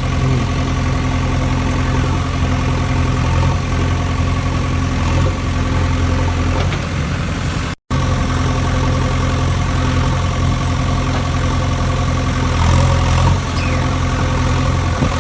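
Tractor engine idling steadily with a low, even drone, cutting out completely for an instant about eight seconds in.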